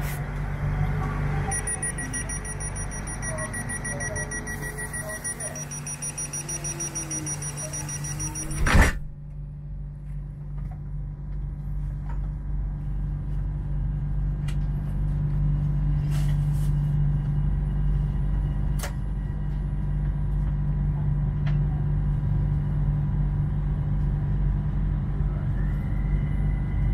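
Train door-closing warning beeps, repeated rapidly for several seconds, ending in a loud thud as the doors shut. Then the train's steady low hum, growing louder as it gets under way.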